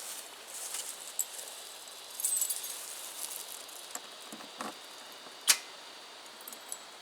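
Light handling noises: a brief rattle about two seconds in, a dull knock a little past four seconds, and a single sharp click at about five and a half seconds, the loudest sound.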